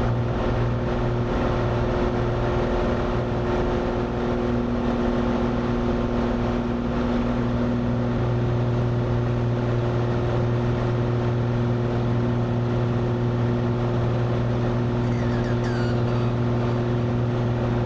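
Cessna 182's six-cylinder piston engine and propeller droning steadily at climb power just after takeoff, with a low hum that shifts slightly about seven seconds in.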